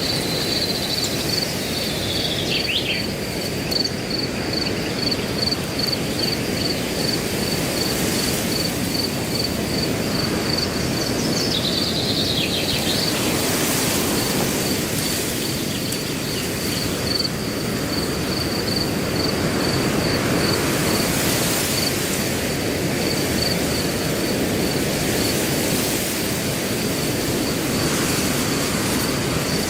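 Wind blowing through grass as a steady hiss, under a cricket chirping in an even, unbroken pulse. A bird gives a short falling call twice, near the start and about twelve seconds in.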